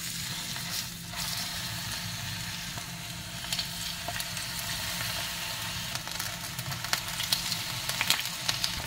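Batter-coated chicken pieces sizzling and crackling in hot oil in a frying pan as more pieces are laid in; the crackling gets busier near the end.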